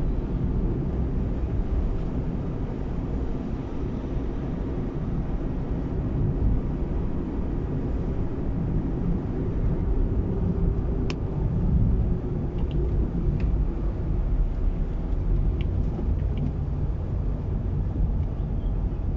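Steady rumble of a car's engine and road noise while driving, with a few faint clicks in the second half.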